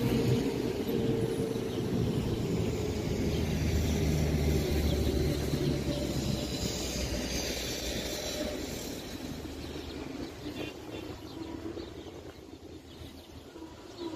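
Train rumbling along the track as it moves away, the sound fading steadily over the last few seconds.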